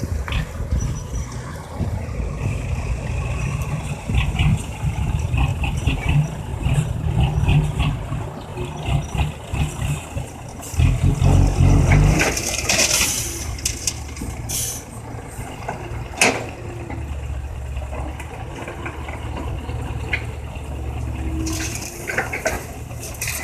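Heavy diesel engines of a Komatsu excavator and a six-wheel dump truck running, with a loud low surge about halfway through and several short hisses after it.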